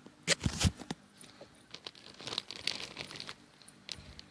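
Plastic bags crinkling as they are handled, with a few sharp crackles about half a second in and then a run of lighter, irregular crinkles.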